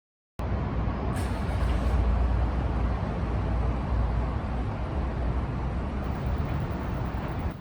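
City street traffic: a steady low rumble of passing vehicles that cuts in abruptly just after the start, with a short hiss about a second in.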